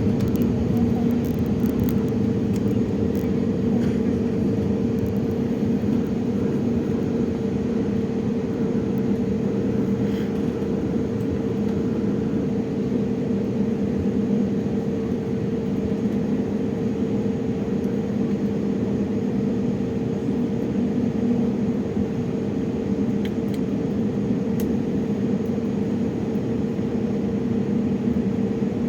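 Jet engines of a Boeing 737-800 running at a distance: a steady rumbling drone with a constant low hum, holding level throughout.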